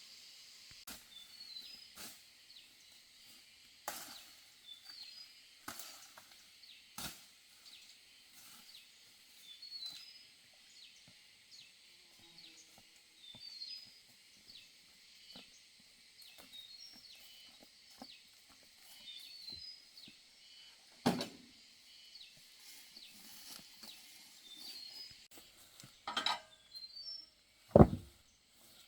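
Scattered knocks of wood being handled or chopped, the loudest about two-thirds of the way through and just before the end, over a steady high hiss with repeated short chirps.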